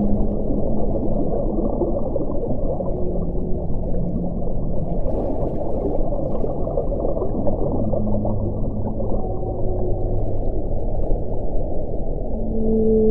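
Low, steady rush of wind, with faint moaning tones that come and go at a few different pitches.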